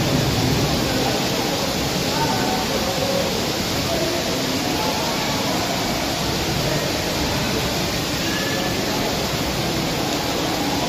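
Heavy rain falling in a steady downpour, an even hiss throughout, with indistinct voices faintly under it.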